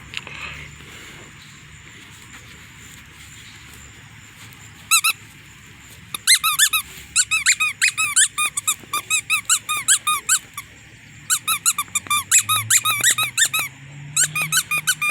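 Squeaky dog toy squeezed again and again as a dog chews it. One squeak comes about five seconds in, then fast runs of high squeaks follow with a short break partway through.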